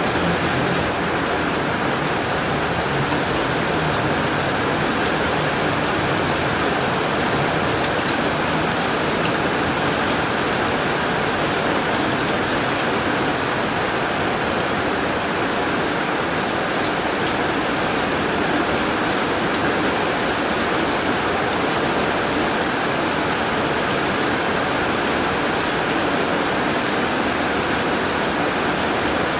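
Heavy rain falling steadily on a tin roof: a dense, even hiss with scattered sharper ticks of individual drops.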